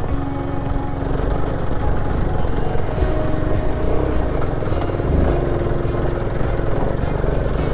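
Royal Enfield Himalayan 450's single-cylinder engine running steadily while the motorcycle is ridden along.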